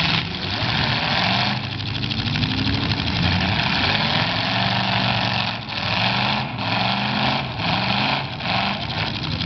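Demolition derby car engines revving hard as two cars push against each other. The roar is steady at first, then cuts in and out in several short bursts of throttle near the end.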